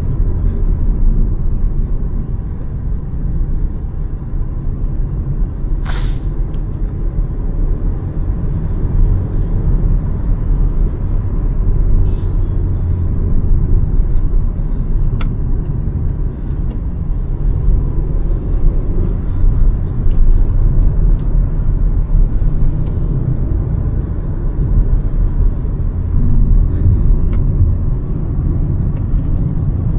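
Hyundai Verna 1.5 turbo-petrol car being driven: a steady low rumble of engine and road noise, with one short sharp click or tick about six seconds in.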